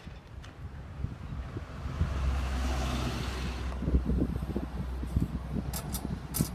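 Diesel multiple unit train passing: a steady low engine drone comes in with a rush of wheels and air that swells to a peak about three seconds in and then fades. Wind buffets the microphone.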